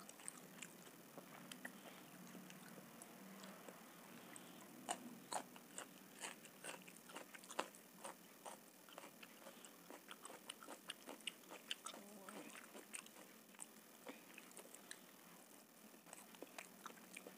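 Close-miked eating sounds of masala khichdi being eaten by hand: soft chewing and many small, sharp wet mouth clicks, with a few louder clicks in the middle.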